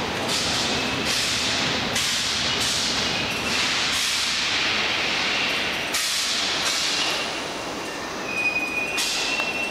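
NS ICMm 'Koploper' electric intercity train rolling past, its wheels and carriages clattering in a run of repeated knocks, with a thin high wheel squeal growing strongest near the end.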